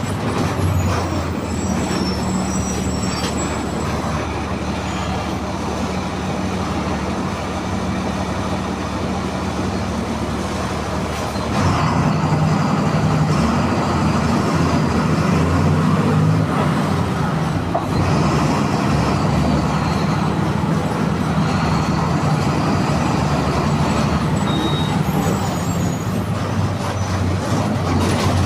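MWM 6.12 TCE 7.2-litre six-cylinder turbo-intercooled diesel of a VW 17-230 EOD city bus running steadily. About twelve seconds in it gets louder and rougher, as under more load, and stays so.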